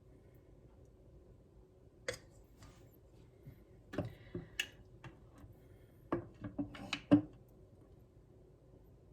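Scattered light taps and clinks of a measuring cup against a bowl and jar as sourdough discard is scooped, with a quick cluster of knocks between about six and seven seconds in.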